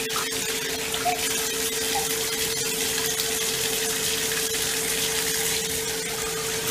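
Water running steadily from a tap, with a steady hum under it.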